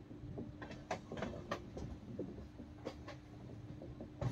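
Interior noise of a train carriage: a low rumble and a steady hum, with scattered sharp clicks and knocks, a cluster of them about a second in and another near the end.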